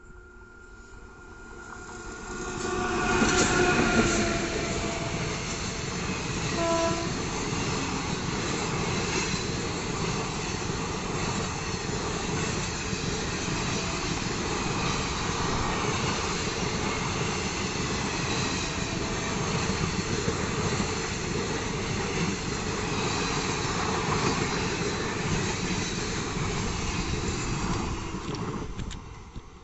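Indian Railways electric locomotive sounding its horn as it nears, then the train rushing past at speed: a steady rumble of wheels on rail with clickety-clack from the coaches that starts about two seconds in and falls away near the end.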